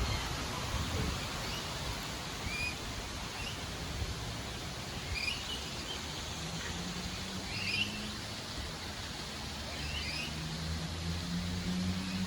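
Birds chirping with short, scattered calls over steady outdoor background noise, with a low steady hum coming in during the second half.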